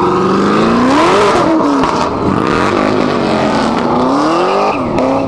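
Sports car engines revving hard, their pitch climbing and dropping again several times as they accelerate away through the gears.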